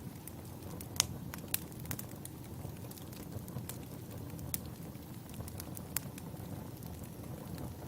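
Wood fire burning: irregular sharp crackles and pops of the logs, the loudest about a second in, over a low steady rumble of the flames.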